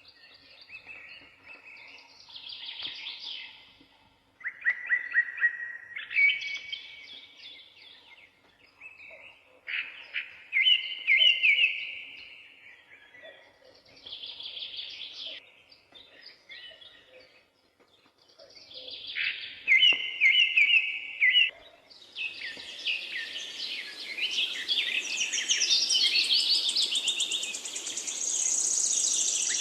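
Several forest songbirds singing, one repeating a loud, quick song phrase every few seconds. About two-thirds of the way in, a steady hiss rises beneath a denser, higher chorus.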